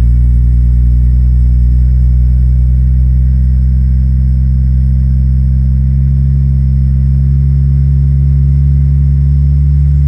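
Single-turbo Toyota 2JZ-GTE inline-six idling steadily on E85 some twenty seconds after a cold start, with a deep, even exhaust note. The idle eases slightly lower about six seconds in as it settles.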